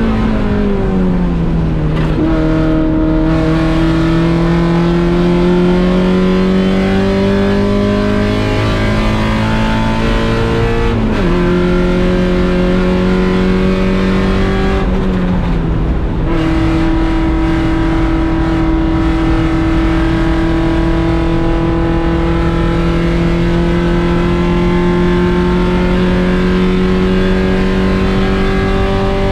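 1.6-litre Mazda Miata four-cylinder engine under race load, its note climbing slowly through long pulls. It drops back in pitch a few times, about a second in, around eleven seconds and around sixteen seconds, as the car shifts or lifts and brakes.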